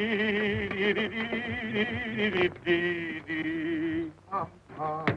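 A male voice singing a slow tune in long held notes with a heavy, even vibrato, pausing briefly partway through before carrying on, with a few short notes near the end.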